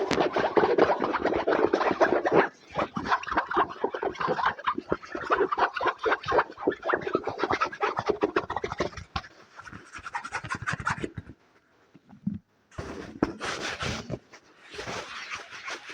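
Fast scratching and tapping on an object close to the microphone, in dense rapid strokes. There are brief pauses about two and a half seconds in, a longer one near eleven seconds, and another around fourteen seconds.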